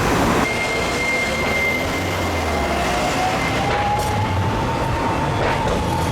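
Hiroshima Electric Railway 5100-series tram, car 5101, running, with a steady high tone and a whine that rises slowly in pitch through the middle.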